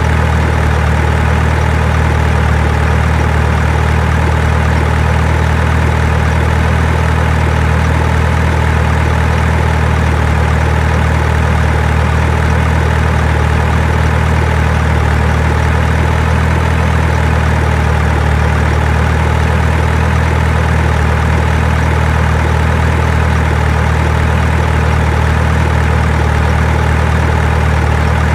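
A steady, loud, low engine-like drone that holds the same pitch and level throughout, with no rhythm or separate knocks.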